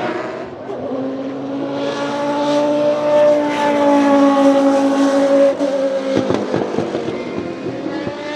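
Historic Group C prototype race car engine at full throttle, its note climbing for several seconds. About five and a half seconds in the note breaks off into a rattle of sharp pops, then it picks up and climbs again near the end.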